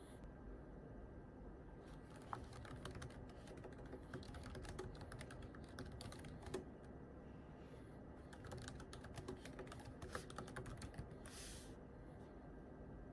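Quiet typing on a computer keyboard: faint, irregular runs of soft key clicks with a short pause partway through, and a brief hiss near the end.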